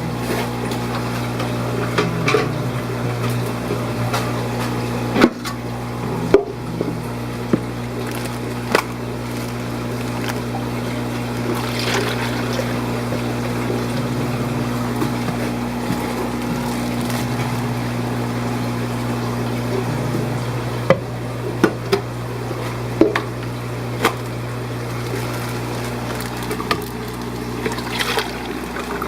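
Saltwater aquarium systems running: a steady low pump hum with water trickling, broken by a few sharp clicks and knocks.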